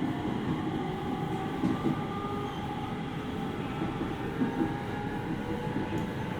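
Running sound heard inside a JR East 701 series 5500-subseries electric train, in the motor car: a steady wheel-and-rail rumble with faint, steady whining tones over it.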